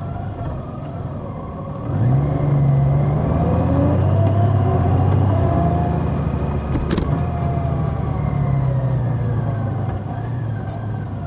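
Large motorcycle engine under way, picking up about two seconds in with its pitch climbing. Near the middle the pitch drops back with a short click and then climbs again.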